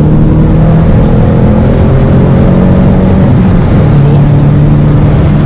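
BMW E82 120i's four-cylinder petrol engine with a sport exhaust pulling in third gear, heard from inside the cabin over loud road and wind noise. Its note rises slowly through the first few seconds.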